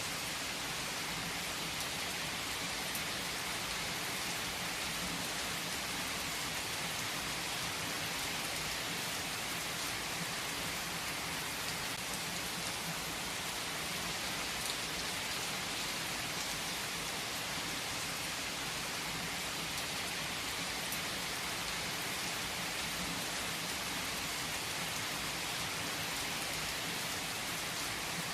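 Steady rain falling, an even, unbroken hiss with no distinct thunderclap.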